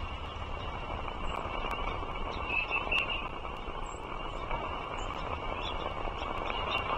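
Steady rush of distant road traffic, with a few faint high bird chirps about two and a half to three seconds in and again near the end.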